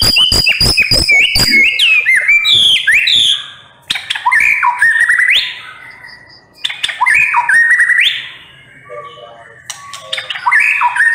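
White-rumped shama singing energetically in varied phrases of rising whistles and rapid sharp notes, with short pauses between phrases. A fast run of sharp clicking notes comes in the first second and a half.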